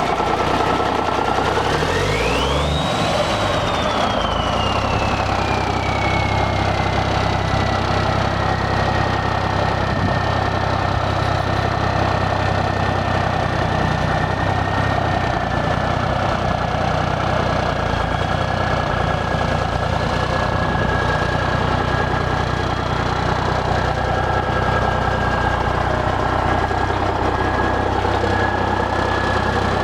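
1991 International 9600 truck tractor's diesel engine running steadily just after starting. About two to three seconds in, the engine note shifts and a high whistle rises, falls back and then holds steady over the running engine.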